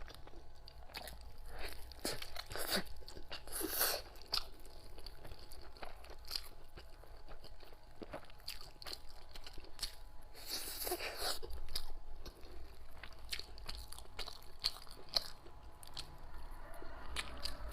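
Close-up chewing and wet mouth clicks of a person eating a sticky rice dumpling (zongzi) with salted egg yolk, with a couple of short breathy sounds, about four seconds in and near the middle.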